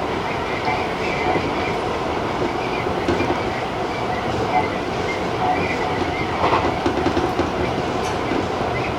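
Electric commuter train running at speed, a steady rumble of wheels on rail with occasional clacks.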